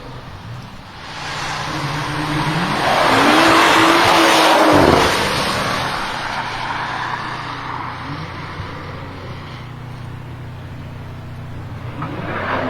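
A performance BMW accelerating past. The engine note climbs and is loudest about three to five seconds in, then drops off and fades as the car moves away.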